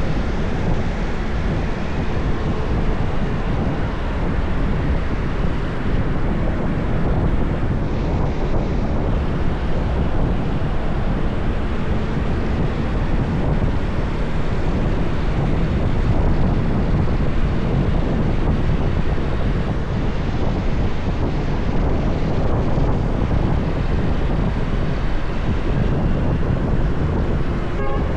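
Steady rush of wind on the microphone over a motorbike's engine and road noise while riding at speed.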